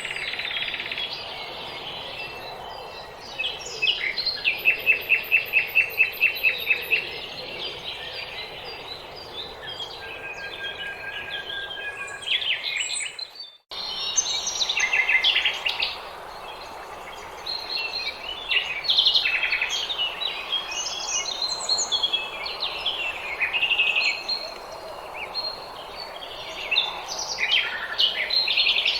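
Small songbirds singing and chirping over a faint background hiss, in many overlapping short phrases of high notes. About four seconds in, one bird gives a loud, fast run of repeated notes lasting about three seconds. About halfway through, the sound cuts out for a moment, as at a join between recordings, before the singing resumes.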